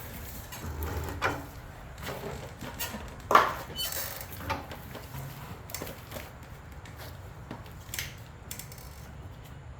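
Scattered clicks and knocks from tools and small parts being handled, with one louder knock about three and a half seconds in.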